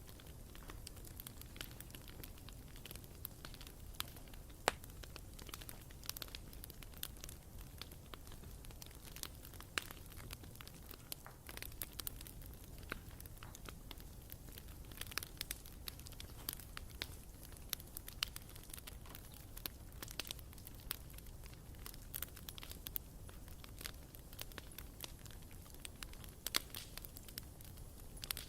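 Bonfire burning, wood crackling and popping in irregular sharp snaps over a low steady rumble of the flames.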